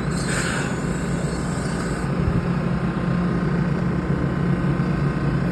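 Baltimore Light Rail train closing its doors and pulling away from the platform: a hiss in the first two seconds, then a steady low motor hum.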